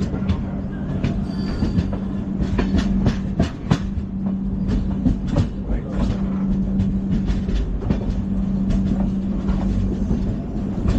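LHB passenger coaches running on the track at speed: a steady low rumble and hum with irregular sharp clicks and rattles from the wheels on the rails.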